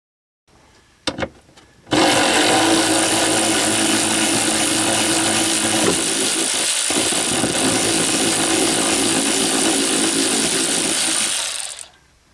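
A handheld power driver runs steadily for about ten seconds, spinning out a 10 mm bolt that holds the wiper linkage. A single click comes just before it starts.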